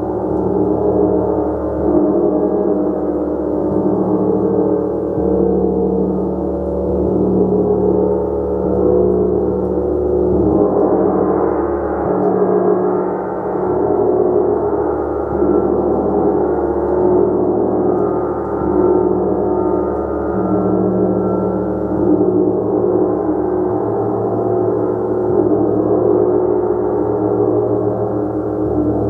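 Gong played continuously: a dense, sustained wash of many overlapping ringing tones that swells and ebbs, brightening about ten seconds in.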